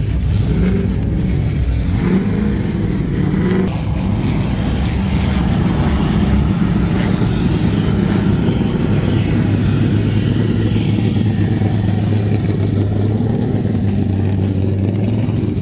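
A car engine idling steadily with a low hum.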